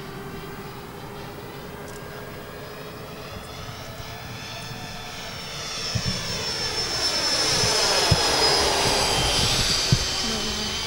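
Twin 12-blade electric ducted fans of a model airliner passing overhead: a faint high whine that grows louder from about five seconds in, peaks about eight seconds in, then eases off as the plane passes.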